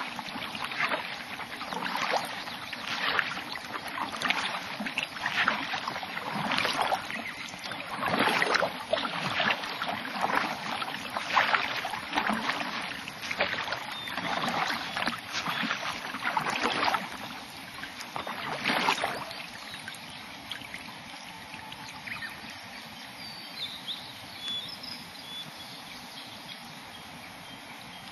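Kayak paddle strokes dipping and splashing in lake water, roughly one stroke a second, stopping about two-thirds of the way through and leaving quiet still-water ambience with a few faint high chirps.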